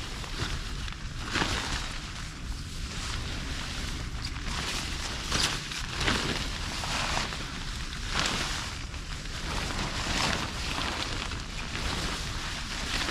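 Steady rain with wind rumbling on the microphone, and a short rustling swish every second or so.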